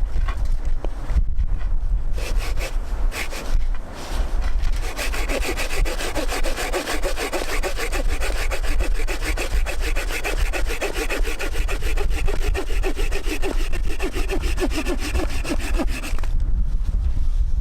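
Hand saw cutting through wood in quick, steady back-and-forth strokes, starting about two seconds in and stopping near the end, with low wind rumble on the microphone underneath.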